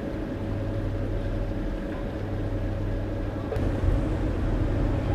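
Engine running steadily with a low drone, getting louder about three and a half seconds in.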